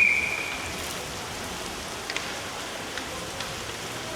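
A short, high whistle blast, most likely the referee's whistle starting the shootout, then a steady hiss of arena background noise with a few faint clicks.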